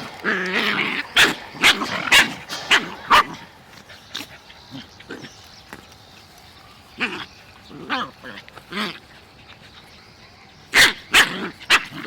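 Puppies barking: a run of sharp yaps in the first three seconds, softer sounds through the middle, then another run of yaps near the end.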